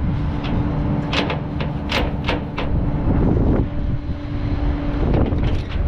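A vehicle engine running with a steady low rumble and hum. Over it come a run of sharp metallic clicks and knocks, the handling of tow gear.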